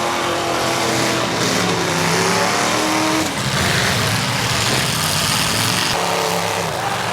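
Demolition derby cars' engines revving, several at once, their pitches rising and falling over a steady noisy haze.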